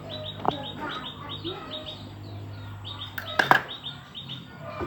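Rapid series of short, high bird chirps, several a second, over a steady low hum, with a sharp knock about half a second in and a louder one about three and a half seconds in.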